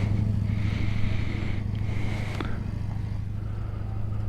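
Engine running steadily at an even speed, with a short hiss partway through and one light click.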